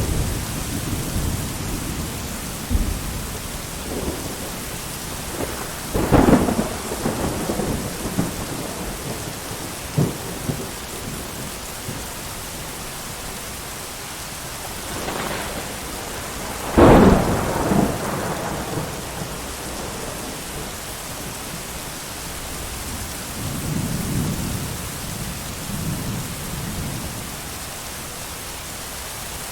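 Thunderstorm: steady heavy rain with two sharp thunderclaps that roll off into rumbling, the second the loudest, and softer low thunder rumbling near the end.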